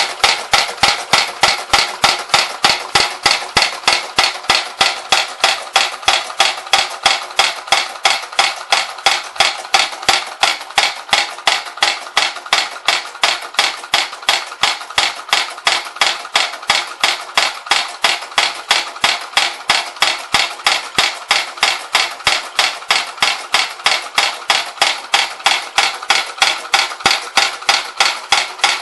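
Toy trip-hammer accessory driven by a Bing overtype toy steam engine, tapping in a steady, even rhythm of about three sharp metallic strikes a second, with the engine's steady hiss underneath.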